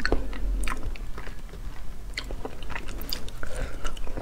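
Close-miked mouth sounds of a person biting and chewing soft, seed-filled fruit pulp: scattered wet smacks and small clicks.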